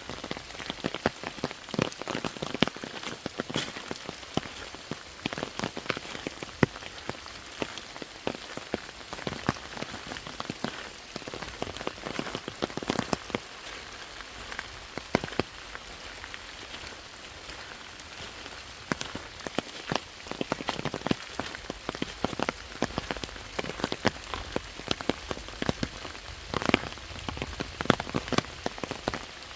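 Steady rain falling: a constant hiss of rain with many close individual drops tapping sharply throughout.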